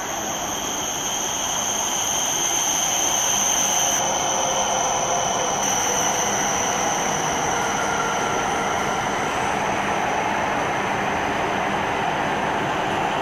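An E7-series Shinkansen train running past on the tracks. It makes a steady rush of wheels and air that builds over the first couple of seconds and then holds, with a high steady whine that fades somewhat in the second half.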